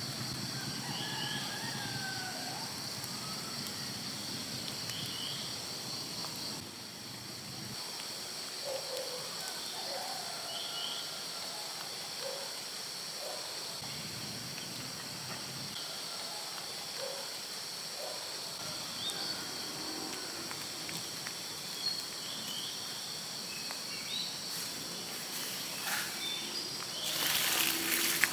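Forest ambience: insects keep up a steady, high pulsing drone while birds call with many short chirps and whistled notes. A brief burst of louder noise comes near the end.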